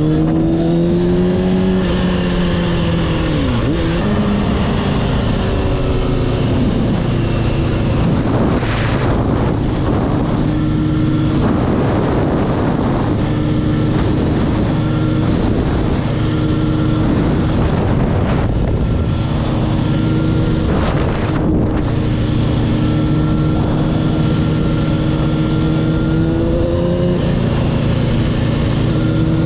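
Motorcycle engine running while riding, its pitch rising and falling with the throttle and dropping sharply about three to four seconds in, as at a gear change or backing off, with a broad rumble of wind noise underneath.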